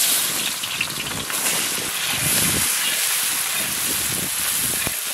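Shredded cabbage sizzling steadily in hot oil in a large steel kadai as it is tipped in and stirred with a spatula.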